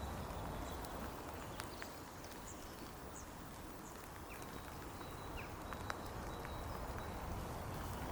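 Outdoor ambience: a steady hiss with scattered light clicks and knocks, and a few faint, short high chirps.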